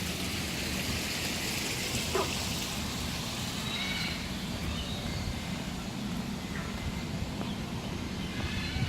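Scattered bird calls over steady background noise: a couple of short falling squawks and several brief high chirps, with a cluster of quick high notes near the end.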